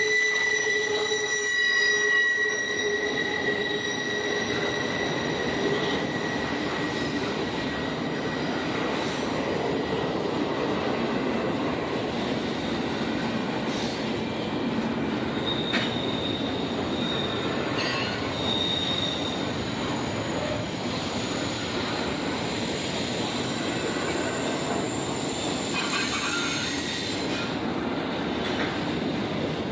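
A train rolling past on the rails: a high steady wheel squeal in the first few seconds fades into continuous rolling and rattling noise of the cars.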